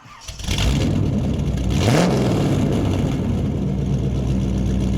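VW/Audi 1.8-litre 20-valve turbo four-cylinder engine running, revving up with a rushing hiss about two seconds in, then holding a steady speed.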